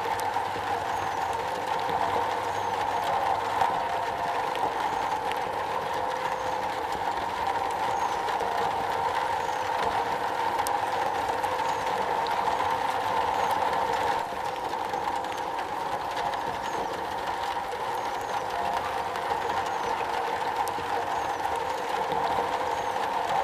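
Rain falling steadily on a metal roof, an even, unbroken patter.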